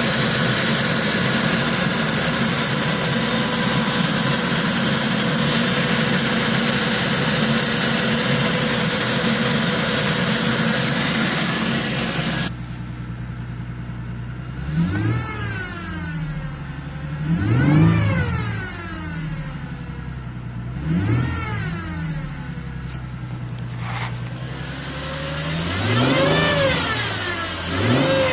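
2010 Ford Mustang's 4.0-litre V6 running cold with a loud, metallic-sounding noise that the owner suspects is the lifters. The noise drops off suddenly about twelve seconds in, and the engine is then revved about four times, its pitch rising and falling with each rev.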